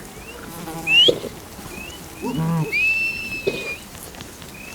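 Short rising whistles repeating every half second or so, with one longer steady whistle about three seconds in, the kind a shepherd uses to herd sheep. Two lower animal calls come in between.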